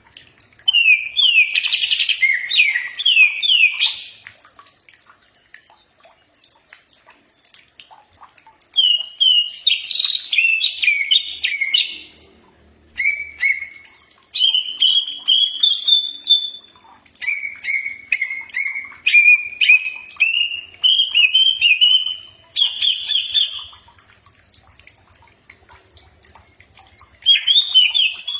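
Cucak ijo (green leafbird) singing: phrases of quick, rising and falling whistled notes broken by pauses of a few seconds, including a longer, slightly rising whistle mid-way.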